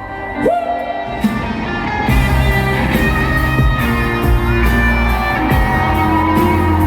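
Live pop band playing an instrumental passage with no vocals. About two seconds in, the full band comes in with heavy bass and a steady drum beat.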